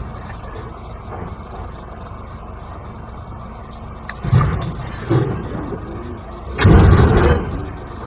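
Steady motor vehicle rumble, with a louder noisy surge about four seconds in and a longer, louder one near seven seconds.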